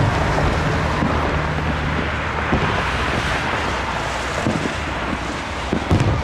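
A few dull fireworks booms, the loudest near the end, over a steady rushing noise and a low engine-like hum that fades after about two seconds.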